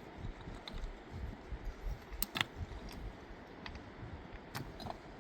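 A few sharp, light clicks or knocks over low rumbling handling noise.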